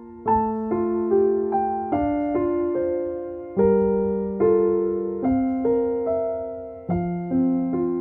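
Calm background piano music: soft notes struck one after another and left to ring and fade, over a deeper note that changes about every one and a half seconds.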